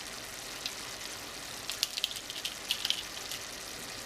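Diced vegetables sautéing in butter in a saucepan: a steady sizzle, with a burst of sharp crackles and pops about halfway through.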